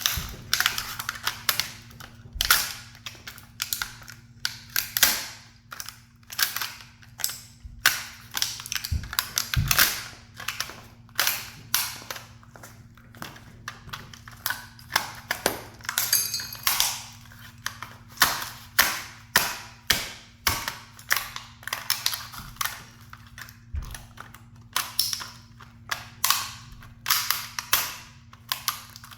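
Toy sports cars being crushed under a high heel: a continual run of sharp cracks and crunches, about one to two loud snaps a second with small crackles between.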